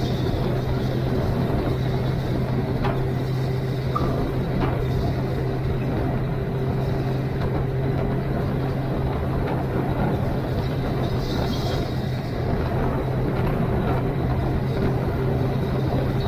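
Suzuki GSX-R1000 inline-four engine running at a steady speed while the motorcycle cruises, with a constant engine note and no revving.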